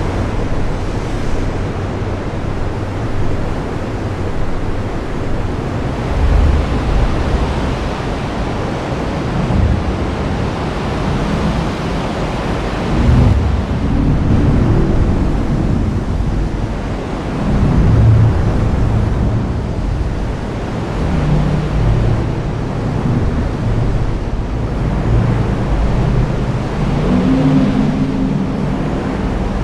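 Heavy rain falling steadily as a dense hiss, with a low rumble swelling and fading several times through the second half.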